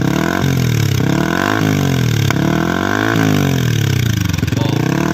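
Yamaha R15 V3's single-cylinder engine blipped repeatedly through an Akrapovic full-system exhaust with its silencer insert fitted. The pitch rises and falls about four times, roughly every second and a half.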